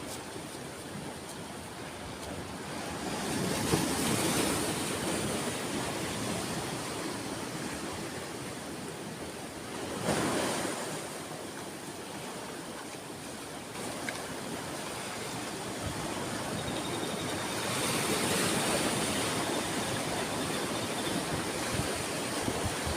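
Ocean waves washing onto a shore: a steady surf noise with three waves breaking louder, several seconds apart.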